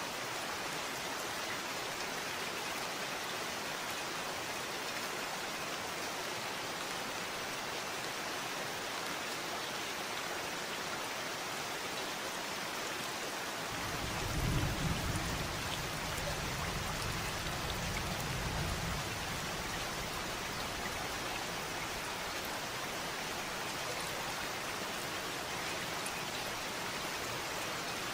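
Steady rain falling, an even hiss of drops. About fourteen seconds in, a low rumble starts suddenly and fades out over about five seconds.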